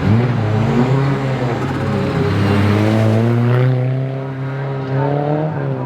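Subaru Legacy rally car's turbocharged flat-four engine pulling hard. Its note rises through the gears and drops at each upshift, about two seconds in and again near the end.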